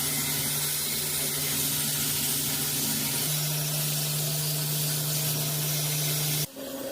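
Loud steady hiss over a low, even machine hum that cuts off suddenly near the end.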